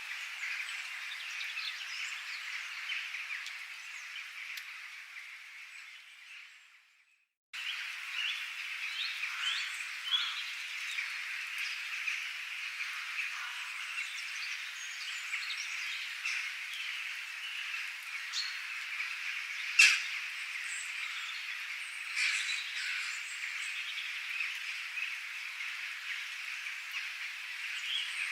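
A dense nature chorus of calling frogs with birds chirping over it. It fades out to silence about seven seconds in, then cuts back in abruptly. A single sharp chirp about twenty seconds in is the loudest moment.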